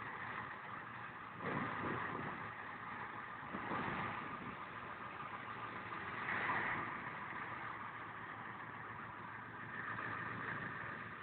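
Street traffic: car engines running, with a few louder swells as vehicles pass.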